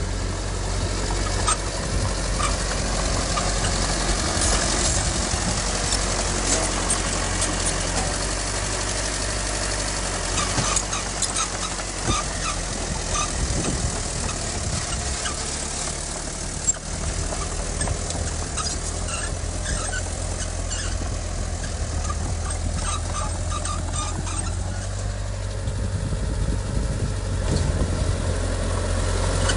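Heavy diesel earthmoving machinery running steadily with a deep rumble, with scattered metallic clanks and short squeaks over it. It grows a little louder near the end.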